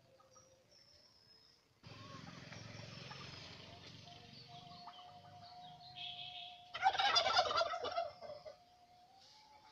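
Domestic turkey gobbling once, a rapid rattling call of about a second and a half, starting about seven seconds in.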